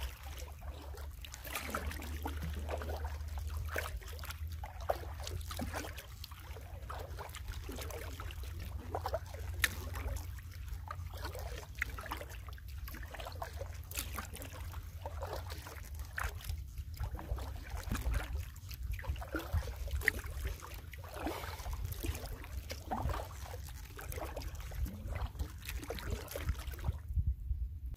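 Canoe being paddled: paddle strokes roughly every couple of seconds, with water trickling off the blade and lapping at the hull, over a steady low rumble.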